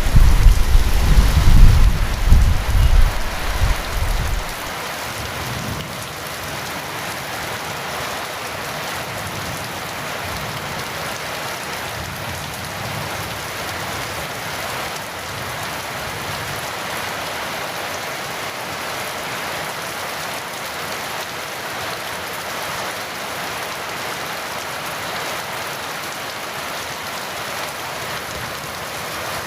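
Heavy rain falling steadily in an even hiss. A low rumble of thunder carries over from before and dies away in the first few seconds.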